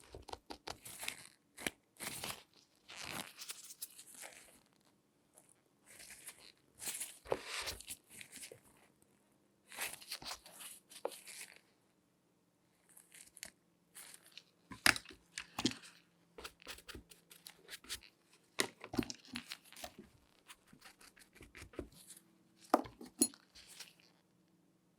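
Close-miked hands in latex gloves handling and rubbing a shoe: a run of short scratchy, rasping bursts, with sharp taps and clicks coming more often in the second half.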